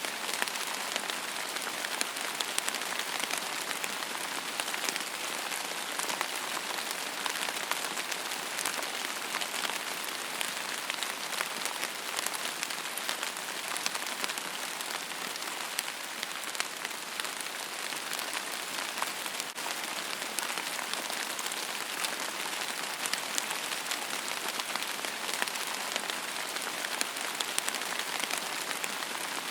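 Steady rain falling on a surface, an even hiss dotted with many fine drop ticks.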